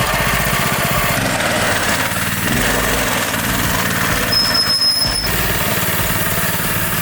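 Mini bike's small engine running steadily as it sets off, with a brief thin high whine about four seconds in.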